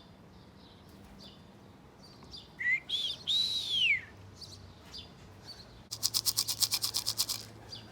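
A pigeon keeper's call whistle: one loud note that rises and then falls, about three seconds in, the signal meant to bring his flying pigeons down. About six seconds in comes a fast rattle, roughly ten shakes a second for about a second and a half, the sound of feed shaken in a can to coax the birds down.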